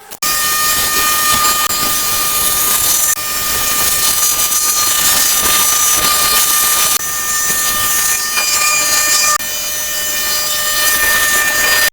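A steady, loud hissing machine noise with a high steady whine over it. It changes abruptly in level three times, about three, seven and nine seconds in.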